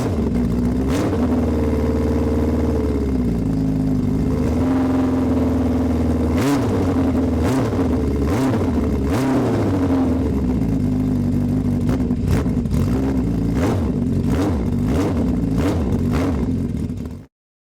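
Honda CB750 F2's four-cylinder engine running and revving, its pitch rising and falling again and again, with several sharp knocks in the second half. It cuts off abruptly near the end.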